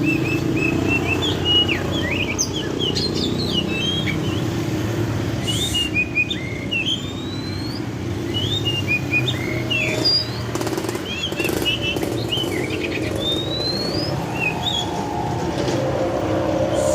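White-rumped shama (murai batu) singing: a running string of short clear whistles, slurred upward and downward notes and quick chattering phrases, over a steady low background rumble.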